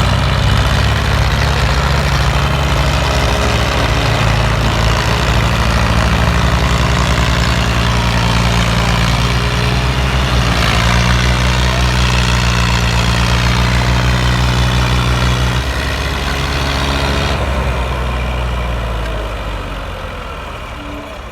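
Tractor diesel engine running loud and steady while hauling a loaded trolley, its sound shifting about fifteen seconds in and then fading over the last few seconds.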